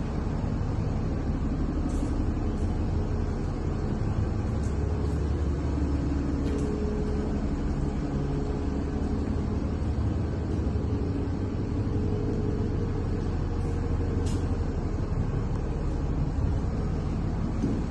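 DAF CF 290 truck's diesel engine running steadily, with a few faint ticks over it.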